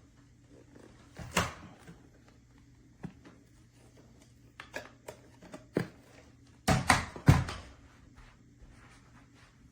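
Scattered short clicks and knocks over a faint steady hum, with the loudest cluster of knocks about seven seconds in.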